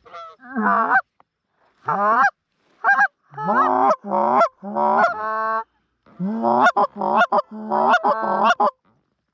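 Canada goose call blown by hand: a run of deep honks and clucks, many breaking from a low note up to a higher one, in short groups with brief pauses. The last group is a quick string of clucks.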